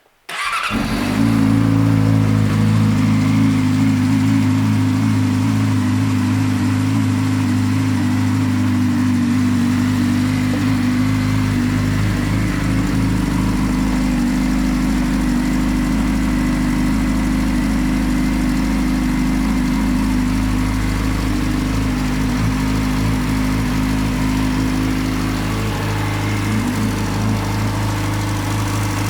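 2012 Yamaha YZF-R6's inline-four engine, fitted with an M4 shorty exhaust, idling steadily. The sound comes in abruptly about half a second in and stays even.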